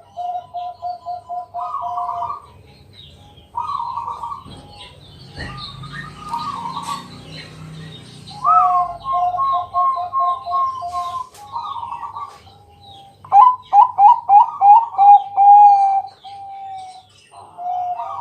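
Zebra dove (perkutut) cooing: phrases of quick, staccato notes and rolling trills repeated over and over, with short pauses between them. Fainter high chirps from other small birds run underneath, and there is a brief rustling noise about five to seven seconds in.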